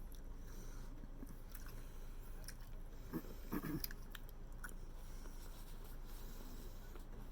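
A person chewing and biting food close to the microphone, with scattered small clicks and a louder burst of mouth sounds a little past three seconds in.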